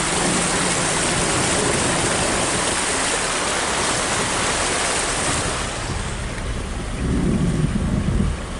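Floodwater rushing and splashing against a car driving through deep water: a steady hissing wash that eases about six seconds in, then a low rumbling surge near the end, taken for water hitting the engine.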